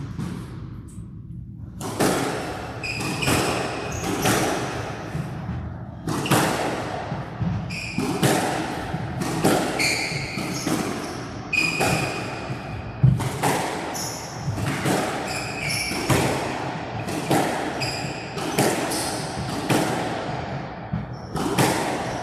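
A squash rally: the ball cracks off rackets and thuds against the walls, with sharp impacts coming about every half second to a second, and shoes squeak on the court floor. The impacts start about two seconds in.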